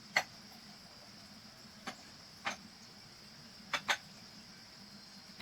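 Light, sharp knocks or clicks, five of them at irregular spacing, with two in quick succession a little past the middle, over a steady high-pitched hiss.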